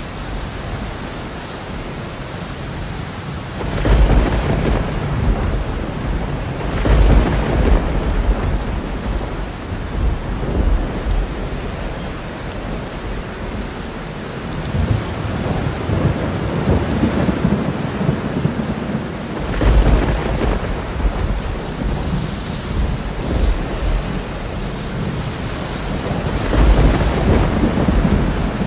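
Thunderstorm: steady rain with four rolls of thunder, about four and seven seconds in, and twice more later.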